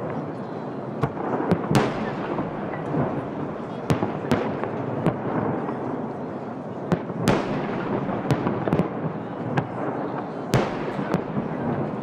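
Aerial firework shells bursting in a large display: an irregular run of sharp bangs, several big reports with long echoing tails, over a constant noisy background.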